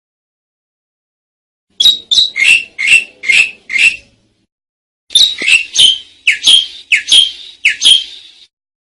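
Asian pied starling (jalak suren) calling in two runs of short notes, each sweeping down in pitch, about three a second. The first run starts about two seconds in; the second follows after a short pause and ends just before the close.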